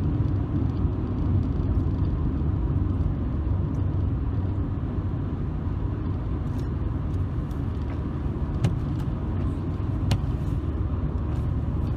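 Steady low rumble of a car's engine and tyres heard from inside the cabin while driving along the road.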